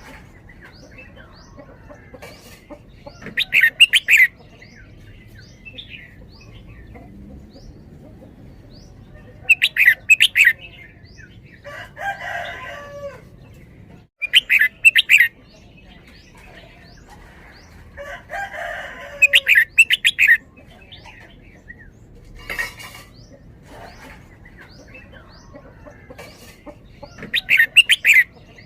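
Red-whiskered bulbul singing: about five loud, short song phrases spaced several seconds apart, sung in the doubled 'double-double' style. Softer calls and faint chirps from other birds come in between.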